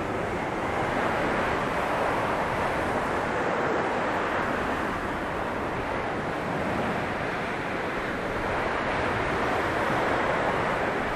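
Blizzard wind blowing steadily, a dense rushing noise that swells and eases slightly every few seconds.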